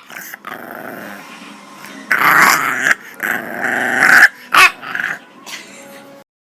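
A dog growling in rough bouts, with a short sharp burst like a bark about four and a half seconds in.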